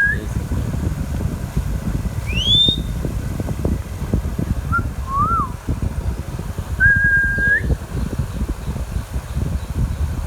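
Indian ringneck parrot giving a few separate whistles: a sharp rising whistle, two short chirps, then one held whistle that lifts at its end. A steady low rumbling noise runs underneath.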